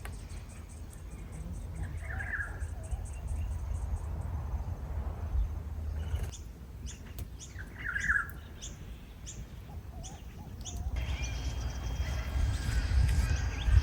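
Birds chirping and calling outdoors: short scattered chirps, with two fuller calls about 2 and 8 seconds in, over a steady low rumble of wind on the microphone.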